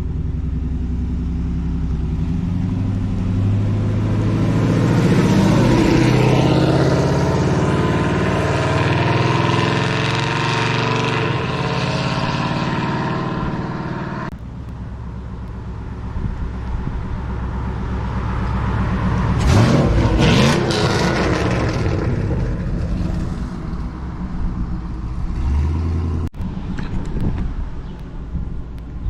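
A stock 6.0-litre LS V8 in an old-body Chevy truck, running through a Corsa 3-inch stainless exhaust and revving in several short clips cut together. Its note rises and falls, breaks off abruptly about halfway through, and comes back with a loud, quick rev about twenty seconds in.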